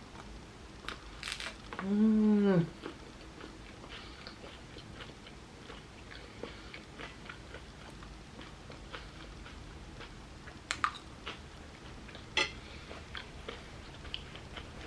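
A person chewing food close to the microphone, with a few sharp crunchy bites of homemade potato chips and a sandwich. A short hummed "mm" about two seconds in is the loudest sound.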